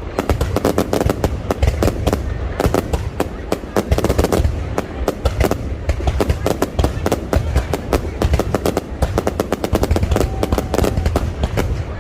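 Fireworks display: a dense, unbroken run of bangs and crackles, many per second, over a deep rumble of booms.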